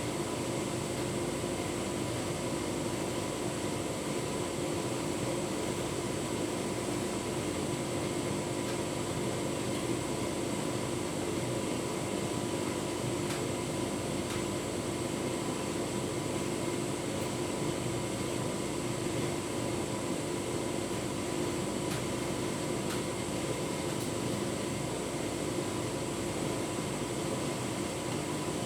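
Tumble dryer running steadily with a full load of bedding: an even hum and whoosh from the motor and fan, with a few faint light clicks from inside the drum.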